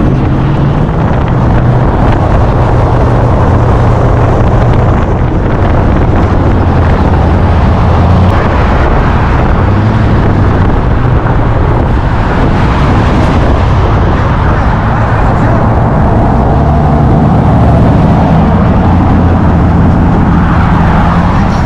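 A motor vehicle engine running loud and close: a deep, steady rumble that shifts in pitch now and then.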